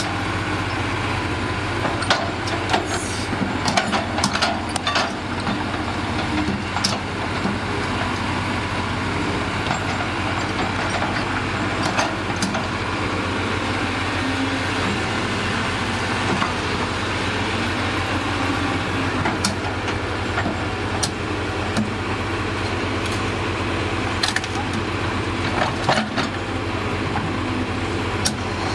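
Bulldozer's diesel engine running steadily, with scattered sharp knocks over it: a cluster in the first few seconds and a few single ones later.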